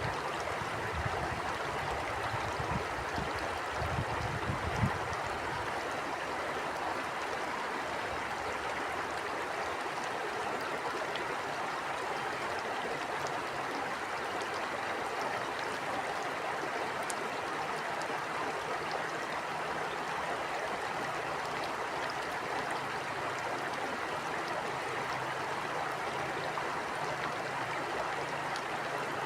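Stream water flowing steadily over stones in an even rushing wash. A few low gusts of wind buffet the microphone in the first five seconds.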